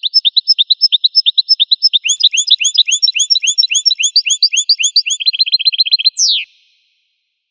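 Goldfinch song used as a training recording: a fast run of short, rising whistled notes, about seven a second. It shifts to a new repeated phrase about two seconds in, speeds up near the end and finishes with a falling sweep, then cuts off abruptly.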